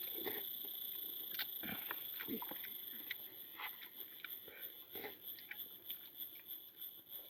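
Eating sounds: scattered clicks of spoons and forks against dishes, with chewing, over a steady high-pitched hum.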